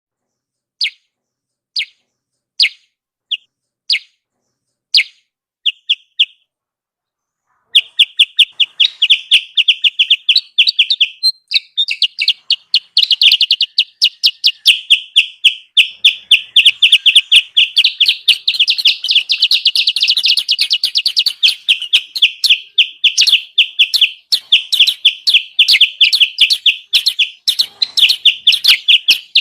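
Recorded kutilang sutra lure call: single high chirps about once a second, then after a short pause a dense, rapid run of chirping that keeps on without a break. A noisy, excited call played to bring wild birds down.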